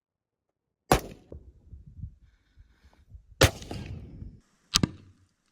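Three gunshots: about a second in, halfway through and near the end, each followed by a low rumbling echo, the middle shot's echo the longest.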